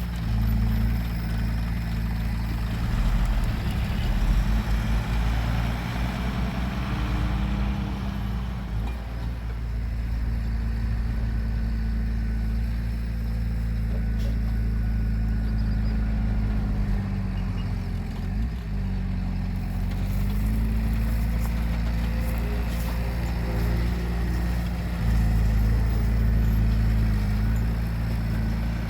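Heavy diesel engine of earthmoving machinery running steadily, its pitch dipping and then recovering once about eighteen seconds in.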